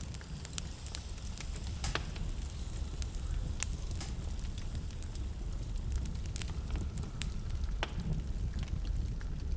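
Wood fire burning in a fireplace, a steady low rumble of flames with frequent sharp crackles and a few louder pops.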